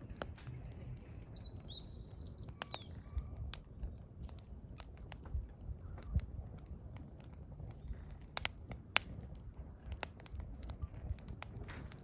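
Burning firewood crackling with scattered sharp pops, the loudest a few about eight and nine seconds in. A wild bird gives a quick series of chirping notes a couple of seconds in.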